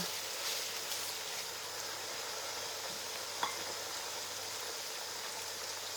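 Red palm oil sizzling steadily in a cooking pot, with one light click about halfway through.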